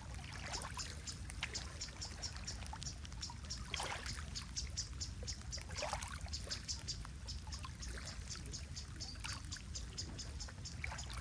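Lake water lapping and trickling gently, with occasional small splashes. A rapid, steady high-pitched chirping pulses at about four or five a second throughout.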